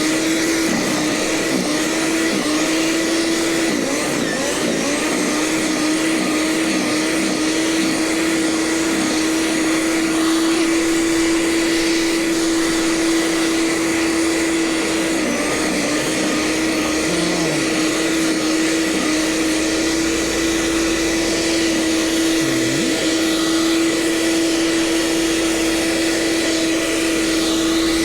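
Gasoline snow blower running steadily at full throttle, its pitch sagging briefly a couple of times as it bites into heavier snow.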